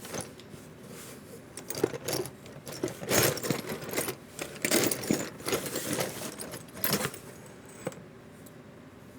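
Irregular clinking and rattling of small hard parts and tools being picked up and set down on a workbench, busiest in the middle and thinning out near the end.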